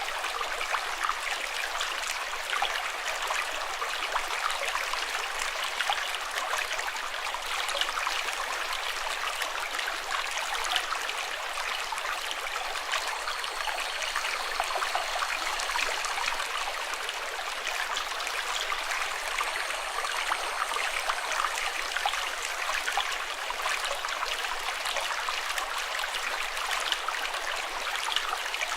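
A stream of running water, a steady rush with many small splashes.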